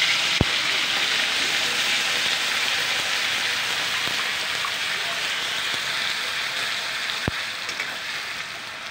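Ginger-garlic paste sizzling in hot oil in a metal kadhai as it is stirred with a steel spatula. The steady sizzle slowly dies down, and the spatula clinks sharply against the pan twice, once near the start and once near the end.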